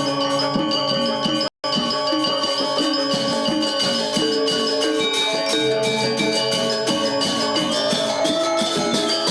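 Balinese gamelan gong ensemble playing a classical lelambatan piece: layers of bronze metallophones and gongs struck in dense, interlocking strokes at a steady level. The sound cuts out completely for a split second about one and a half seconds in.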